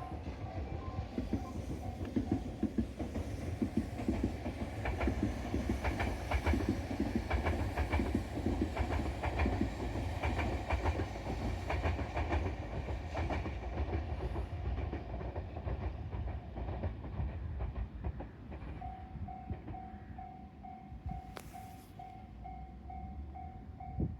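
Tobu Isesaki Line electric train running along the track with a heavy rumble and wheels clacking over rail joints, the sound fading away in the second half. Near the end a repeating two-beats-a-second warning tone starts up.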